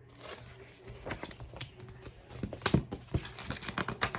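Paper handling as a picture book's pages are turned: a run of light clicks and rustles, busier in the second half.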